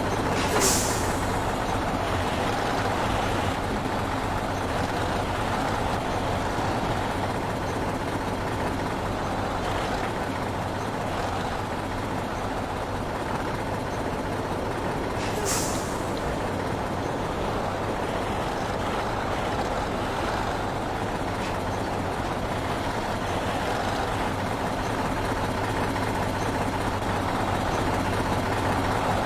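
Heavy truck running slowly with a steady engine drone, and two short air-brake hisses, one near the start and one about halfway through.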